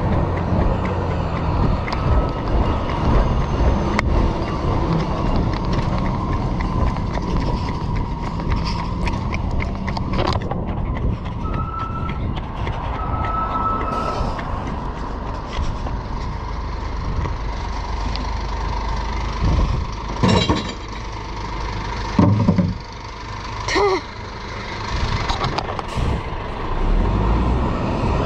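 Glass recycling collection truck running, its engine rumbling under a steady high whine. Two short beeps sound near the middle, and several loud knocks and clatters come in the last third.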